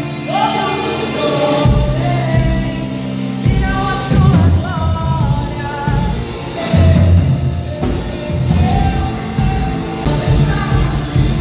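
Church worship band rehearsing a song: singing over full band accompaniment.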